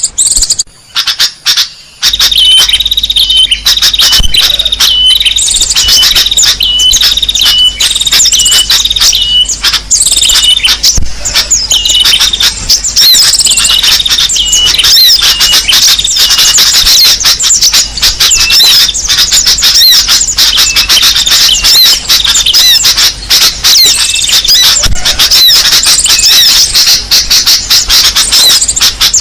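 Bird-lure recording of many small songbirds chirping and calling loudly together. A short, sharp call repeats steadily through the first half, over a dense mix of high chirps and trills. The chorus starts in full about two seconds in, after a brief choppy gap.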